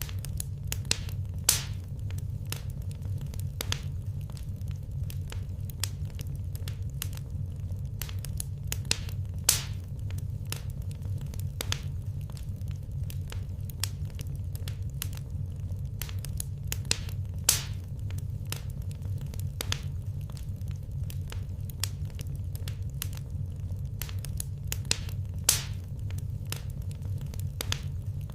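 Wood fire crackling steadily, with frequent small snaps and a few louder pops, over a low steady rumble.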